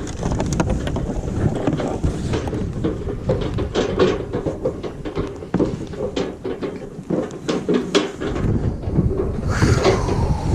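Wind buffeting the microphone over the rumble of a small boat crossing choppy water, with waves knocking and slapping against the hull again and again. A pitched bird call starts near the end.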